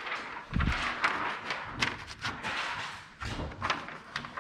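A dull thump about half a second in, followed by scattered light knocks and handling noise.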